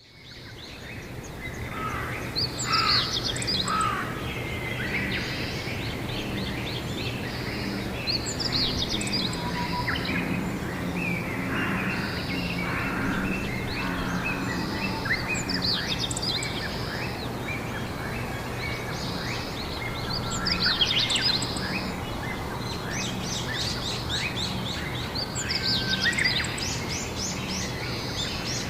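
Songbirds singing in short bursts of quick chirps and trills every few seconds, over a steady low background hum. The sound fades in at the start.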